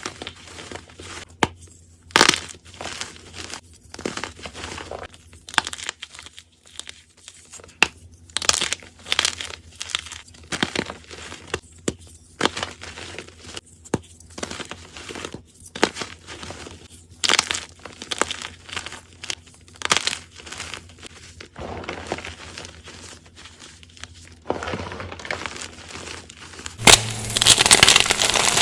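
Blocks of gym chalk being crunched and crumbled, an irregular run of sharp, dry crunches and crackles. Near the end it turns into louder, denser continuous crushing.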